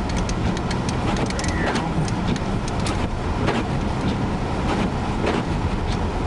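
Car interior noise while driving through heavy snow: a steady low road rumble with many short, irregular ticks and clicks over it.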